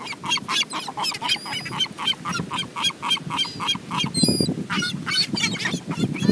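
Seagulls calling in a rapid run of short, harsh squawks, about four to five a second, several birds at once, over a steady low rush.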